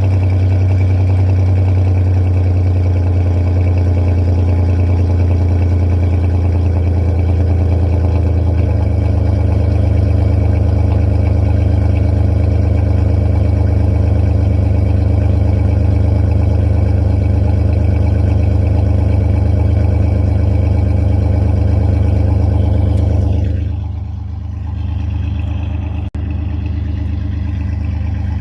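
A 4.3-litre V6 truck engine running at a steady idle seconds after a cold start in freezing weather. About 24 seconds in, it quietens somewhat and keeps idling.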